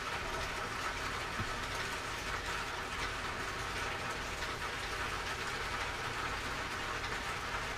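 Steady, even background hiss with no distinct events apart from one faint click about a second and a half in.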